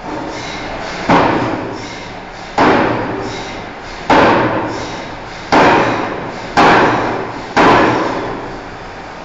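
Heavy forging hammer striking hot steel bar: six heavy blows about a second to a second and a half apart, each ringing away over about a second.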